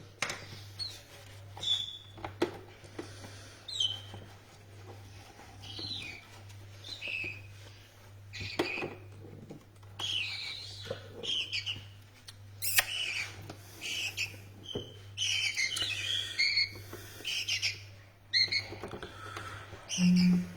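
Small parrots giving short chirping and squawking calls, scattered at first and more frequent and overlapping in the second half, with a few sharp clicks. A steady low electrical hum runs underneath.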